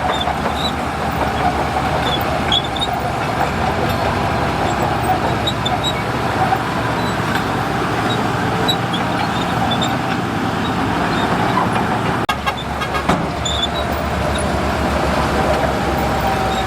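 Heavy diesel earthmoving machinery running steadily under load, a low rumble with a steady whine over it. There is a short run of clicks or knocks about three-quarters of the way through.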